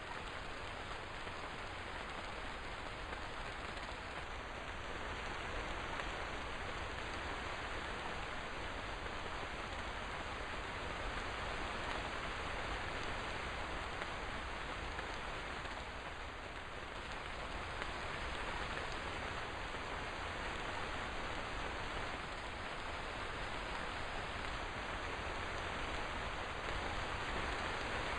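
Steady rainfall, an even hiss of rain with no distinct drops standing out.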